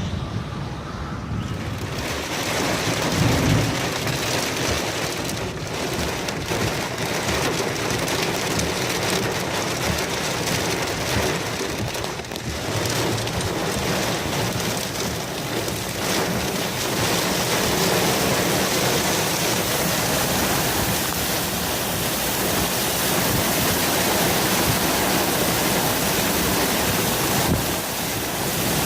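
Heavy rain and wind from a severe thunderstorm line: a steady, loud rush that comes in fully about two seconds in.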